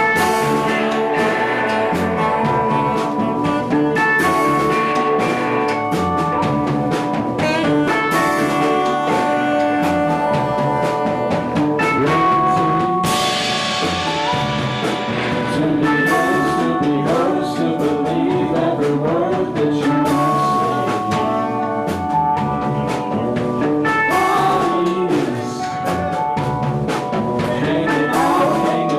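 Live band playing a song: drum kit and cymbals keeping the beat under sustained instrument notes, with a singing voice.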